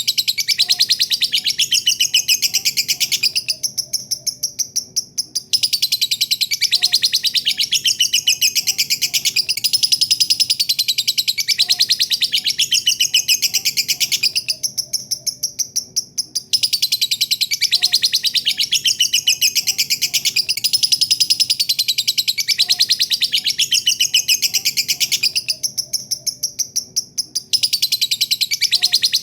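A lovebird's long 'ngekek' song: a rapid, high-pitched rattling chatter that runs on for several seconds at a time. It fades and breaks off for about two seconds three times, roughly every eleven seconds.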